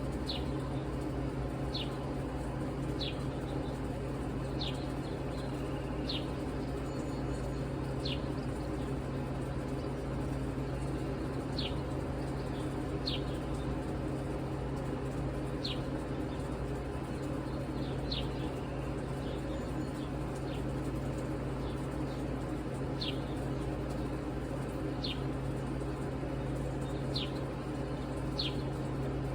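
A bird calling with short, high, downward-sliding chirps, one every one to three seconds, over a steady low hum.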